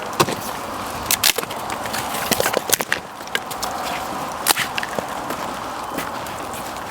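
Small wood fire crackling, with irregular sharp snaps every second or so over a steady hiss.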